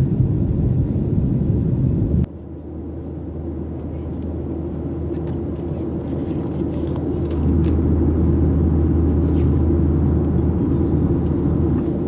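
Jet airliner cabin noise from a Boeing 737-700, its CFM56 engines running as a steady low rumble and hum. About two seconds in the sound cuts abruptly to a quieter, steadier hum, which swells louder around the middle.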